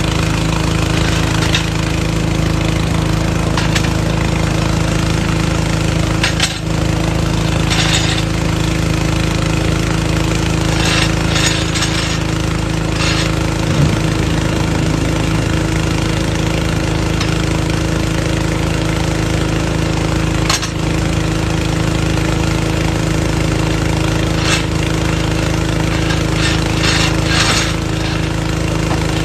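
Engine-driven air compressor running steadily with a low drone, with brief metallic clanks and rattles from tools and the jack being handled every few seconds.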